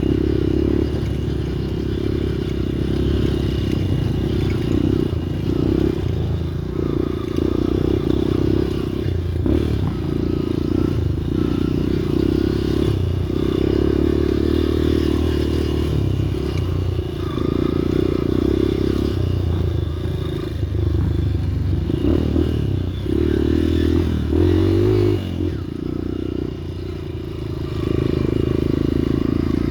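Motorcycle engine running as the bike is ridden over rough ground, its note swelling and easing every second or two with the throttle.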